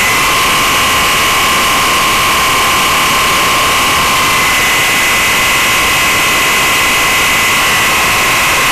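Concorde's jet engines running: a loud, steady, harsh rush of noise with a steady high whine over it, level and unchanging throughout.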